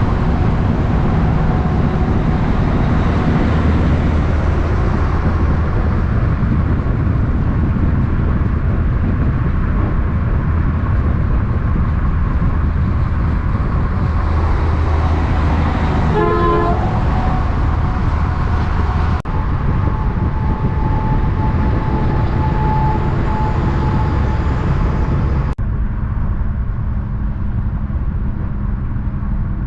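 Heavy diesel truck traffic running loud and steady, with a short horn toot about 16 seconds in. The sound changes abruptly twice, at about 19 and 26 seconds.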